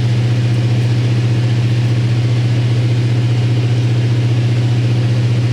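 A running engine's steady, unchanging drone: one strong low hum with fainter overtones above it.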